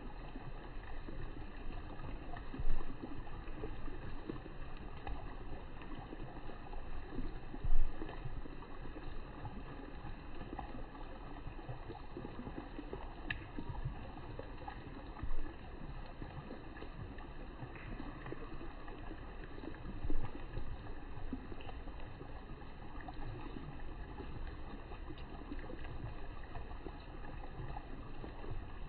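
Steady outdoor background noise by a pond, a low rumble and hiss, broken by four brief louder bumps.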